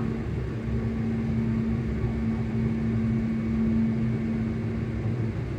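ScotRail electric train's traction motors humming, heard from inside the carriage: one steady tone over the low running rumble of the train, cutting out about five seconds in.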